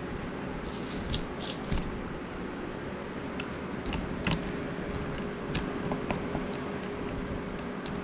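Scattered light metallic clicks and knocks of the Ohio Forge bench vise's parts being handled and fitted back together, over a steady hum.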